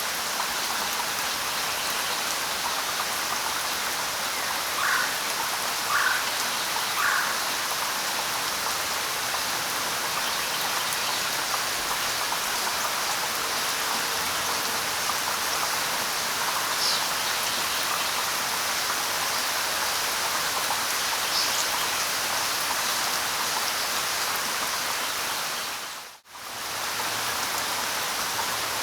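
Steady light rain falling on leaves, with a few short bird calls: three close together early on and a couple of fainter high ones midway. The rain sound briefly cuts out about three-quarters of the way through, then resumes.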